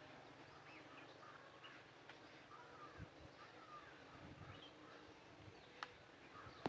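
Faint outdoor bird calls: many short chirps and slurred notes overlapping, with one sharp click near the end.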